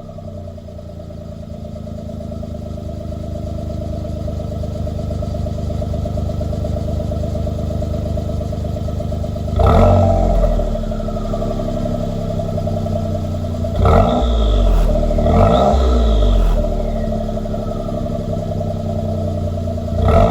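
Suzuki Kei Sports' three-cylinder 660 cc engine idling through a Kakimoto.R aftermarket muffler, just after starting. It is blipped several times, briefly about halfway through and then in a cluster of quick revs a few seconds later and again near the end.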